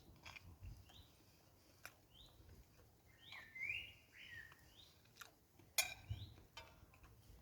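Wild birds calling faintly: a short rising chirp repeated about once a second, with a louder warbling phrase a little over three seconds in. A sharp click just before six seconds in.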